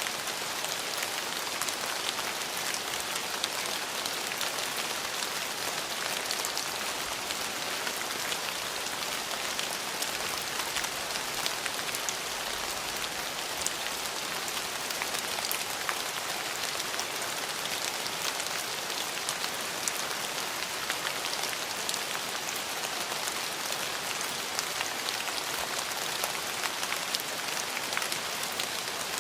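Steady rain falling on hard surfaces, a dense even hiss dotted with the small ticks of individual drops.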